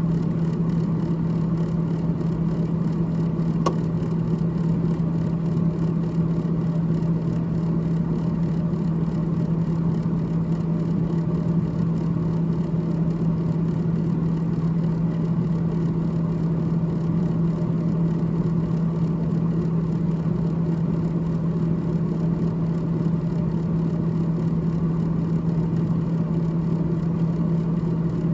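Freezer fan of a GE GTH18XCTZRBB refrigerator running steadily with a constant low hum, with one faint tick near the start.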